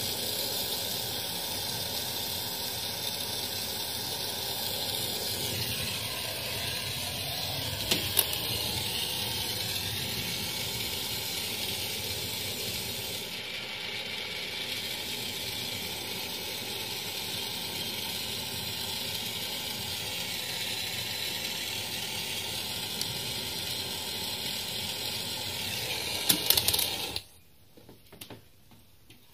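Gas brazing torch hissing steadily during work on a refrigerator compressor's tubing. A sharp click comes about eight seconds in, and near the end the hiss cuts off suddenly after a short clatter.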